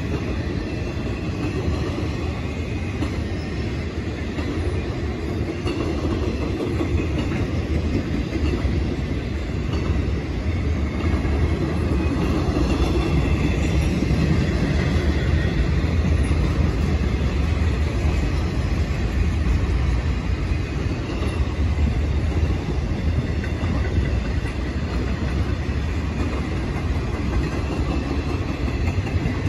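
Intermodal freight cars, loaded with truck trailers and double-stacked containers, rolling past steadily: steel wheels running on the rails with a constant, mostly low-pitched rolling noise.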